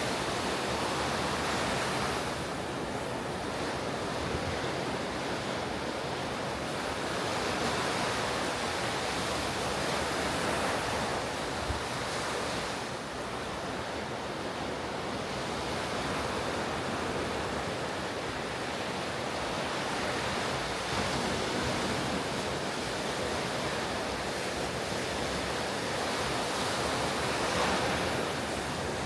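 Ocean surf breaking and washing up a beach, a continuous roar of white water that swells and eases every several seconds, with some wind on the microphone.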